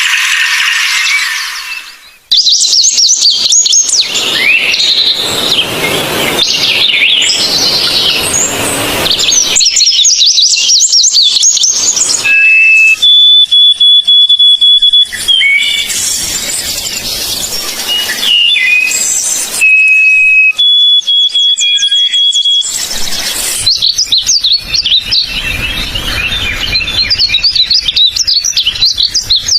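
Forest birds chirping and singing in quick, twittering trills, with several long, steady whistled notes in the middle. The recordings change abruptly a few times.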